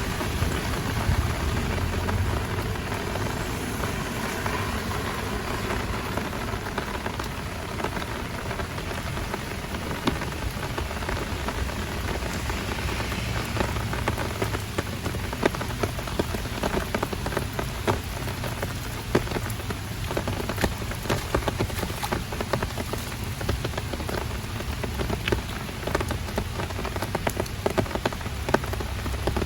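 Heavy rain falling steadily, with many sharp close raindrop hits that come thicker in the second half.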